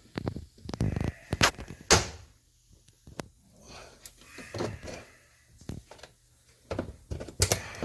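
A series of sharp plastic clicks and knocks as wheel-arch liner clips are pried out of a car's front wheel arch, with quiet gaps between them; the loudest come around two seconds in and near the end.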